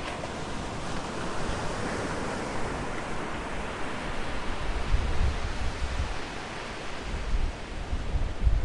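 Outdoor nature ambience: a steady rushing noise, with low rumbling gusts starting about halfway through.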